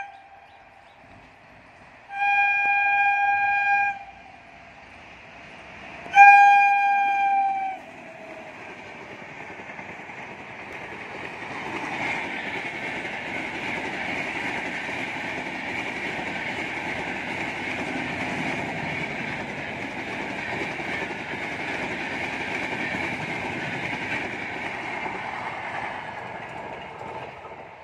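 Express train approaching and passing at speed: two long locomotive horn blasts about two seconds apart, the second louder and dropping in pitch as it ends. Then comes the steady rumble and clatter of LHB passenger coaches running by, easing off near the end.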